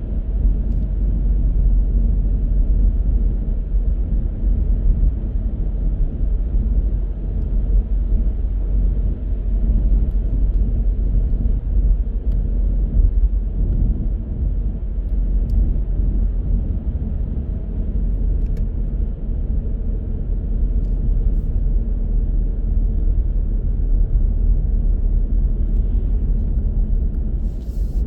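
Steady low rumble of a car being driven: road and engine noise, with a short faint click near the end.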